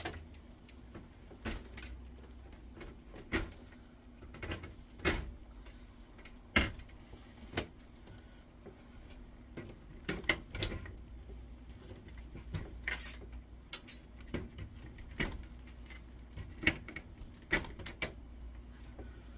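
Irregular clicks and knocks of wires and connectors being worked loose from the circuit board inside a dismantled induction hob, about one or two sharp clicks a second at uneven spacing, over a steady low hum.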